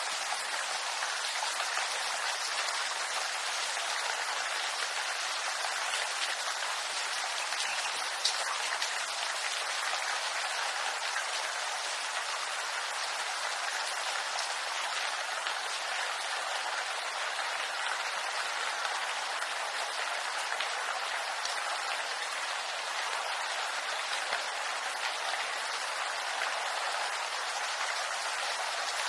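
Steady rain falling on a bamboo grove, an even hiss with scattered individual drops ticking; one sharper drop lands about eight seconds in.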